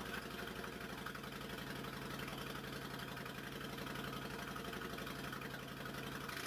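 Suzuki Intruder V-twin, a rebadged Kawasaki Mean Streak, idling steadily through aftermarket Vance & Hines Big Shots exhaust pipes, with an even, loping pulse.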